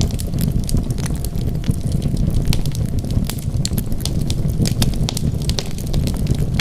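Wood fire burning: a steady low rumble with frequent sharp, irregular crackles and pops.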